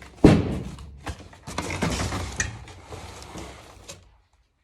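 Box and packaging being handled: a loud knock about a quarter second in, then scraping and rustling with smaller knocks, stopping near the end.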